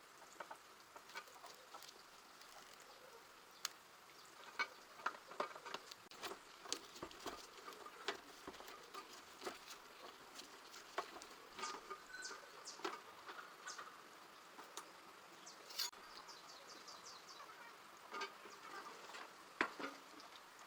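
Scattered light clicks and taps of small parts and hand tools being handled during a repair, with a quick run of ticks about sixteen seconds in.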